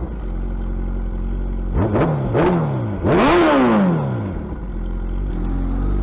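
Suzuki Hayabusa's inline-four engine running through a loud aftermarket exhaust and being revved: two quick throttle blips about two seconds in, then a bigger rev that climbs and falls back, before it settles to a steady idle.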